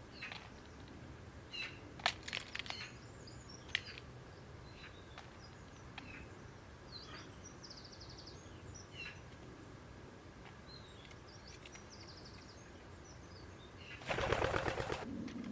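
Small garden birds giving short chirps and twitters, with a few sharp taps in the first few seconds. Near the end a bird's wings flap loudly for about a second as it takes off.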